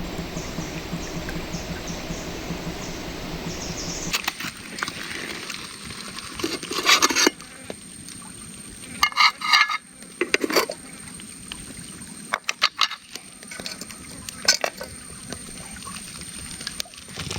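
Steady rushing water for the first few seconds, then it cuts away to quieter surroundings with scattered metallic clinks and rings of camp cookware and utensils, a few strikes at a time.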